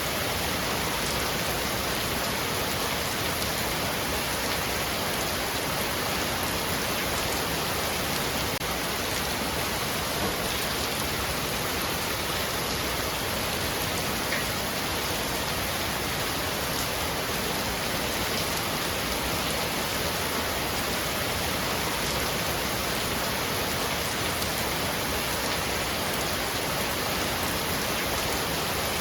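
Heavy rain falling steadily on a roof: an even, unbroken hiss of drops with no thunder.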